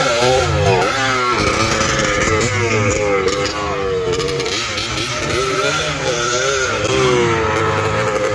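Several motocross motorcycles racing, their engines revving up and down over and over as the riders open and close the throttle.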